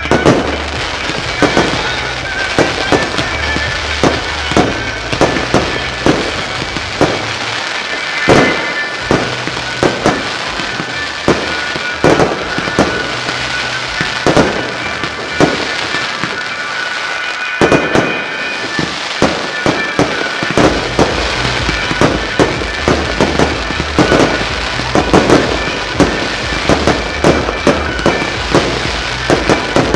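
Fireworks display: aerial shells bursting in quick, irregular succession, a couple of bangs a second, over the show's accompanying music, whose bass drops out briefly about halfway through.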